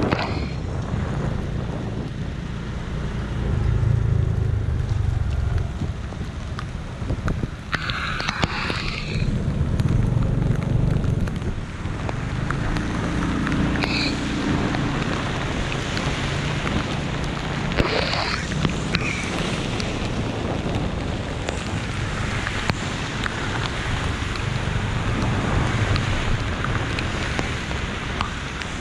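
Steady rain falling, heard as an even hiss dotted with small drop ticks, over a low rumble of road traffic that swells and fades. A few brief higher-pitched sounds stand out about a third of the way in and again past the middle.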